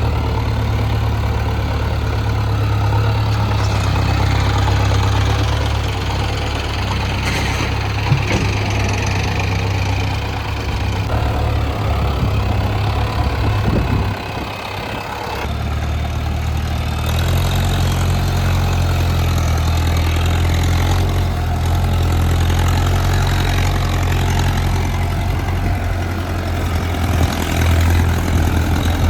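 Diesel engines of an excavator and farm tractors running steadily under work. About halfway the sound dips briefly, then the engine note settles to a lower, steady pitch.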